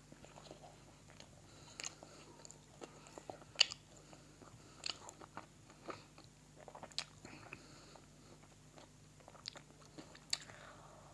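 A person chewing a bite of kabab-crust pizza close to the microphone: irregular mouth clicks and soft crunches. The sharpest click comes about three and a half seconds in.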